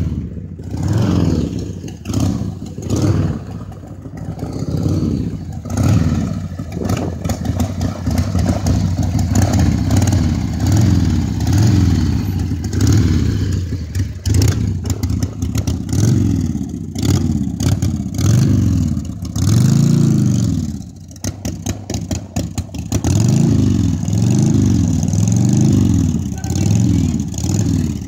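1986 Harley-Davidson Sportster 1100's air-cooled V-twin running just after a carburettor rebuild, its revs rising and falling over and over, about once a second. There is a short drop in engine level about three-quarters of the way through.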